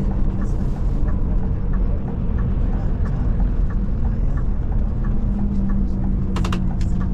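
Scania Touring coach driving, heard from on board: a steady low engine and road rumble. Light regular ticks come about three times a second, and there is a brief sharp clatter about six seconds in.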